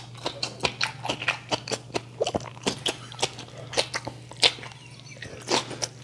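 Close-miked chewing: a man eating with his mouth right at a microphone, giving wet, irregular smacks and clicks several times a second.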